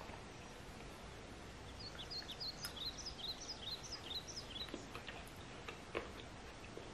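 A songbird singing a quick run of short, high, downward-sliding chirps for a couple of seconds, faint over steady background hiss. There is a single small click near the end.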